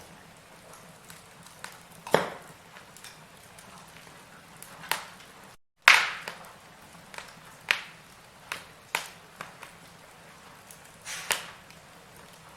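Firewood burning in a fireplace, crackling with irregular sharp pops every second or so over a faint steady hiss. The biggest pops come about two seconds in, near the middle, right after a split-second dropout, and near the end.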